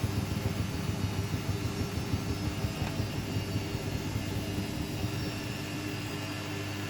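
Hoover Baby washing machine running in its first rinse: a steady motor hum with a rushing noise, easing off slightly near the end.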